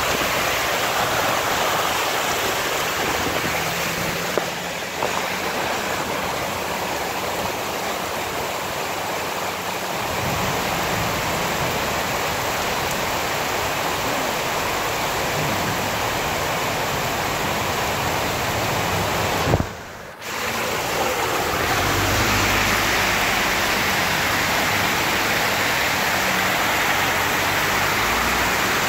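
Heavy downpour: rain and runoff water rushing over a flooded street, a steady hiss that drops out briefly about twenty seconds in.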